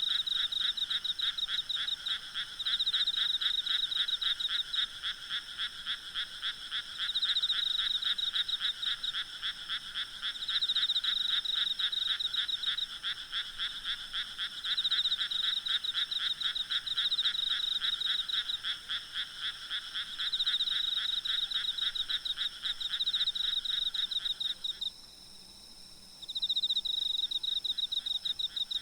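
Night chorus of frogs calling in dense, rapid pulsing trills, swelling and easing every few seconds, with insects calling underneath. The chorus drops out for about a second and a half near the end, then comes back.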